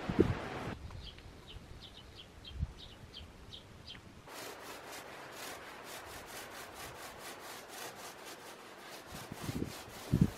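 A small bird chirping a quick series of short, high notes, followed by a steady rasping rhythm of about four strokes a second, with a couple of low thumps near the end.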